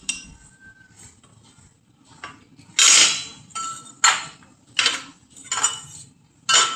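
Metal being struck over and over: about six sharp metallic clanks, roughly one every three-quarters of a second, some with a brief ring, starting a little before halfway through.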